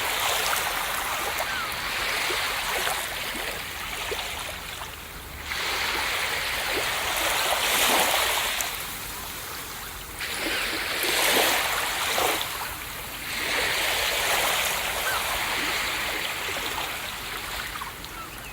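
Ocean waves breaking and washing up a beach, the surf swelling and fading every few seconds.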